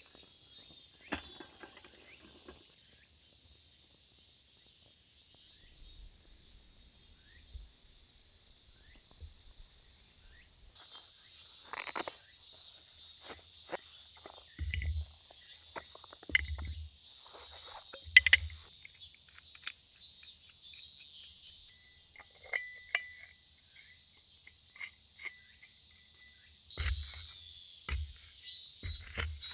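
Steady high insect chorus, with scattered short clicks and knocks and a few low thumps.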